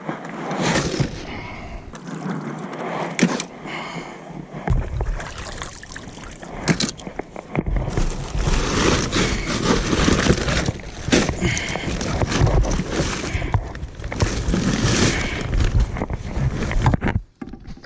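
Oysters being harvested from a kayak: water splashing and sloshing, with many short knocks and clatters of shells and gear.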